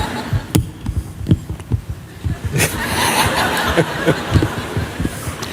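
People laughing and chuckling, with a few short knocks.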